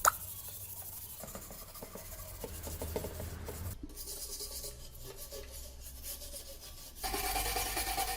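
Hand scraping and rubbing, as in filing or sanding down rust on the lantern's metal, with a sharp click right at the start. It gets louder for the last second or so.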